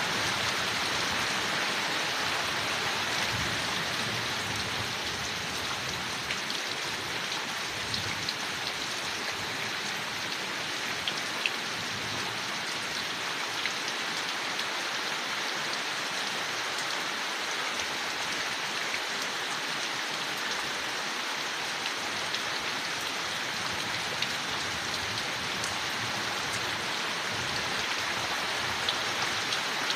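Steady rain falling on forest leaves, an even hiss with scattered individual drops.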